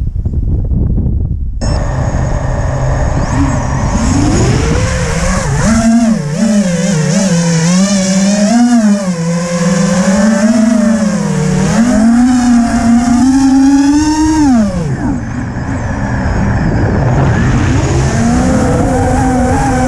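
FPV drone's electric motors whining, the pitch sliding up and down as the throttle changes, over wind rumble on the microphone. The whine starts about a second and a half in, falls away briefly about three quarters of the way through, and climbs again near the end.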